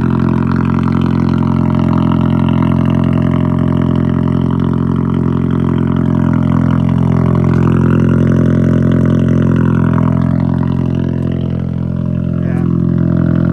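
Engine of a tuned Volkswagen Passat R-Line idling steadily, its exhaust giving a deep, even drone.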